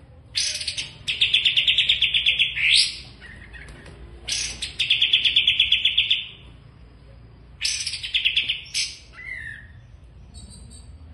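A songbird singing in phrases: three loud, fast trills of rapidly repeated high notes, about eight to ten a second and each lasting a second or two, with a few short falling whistles after the third.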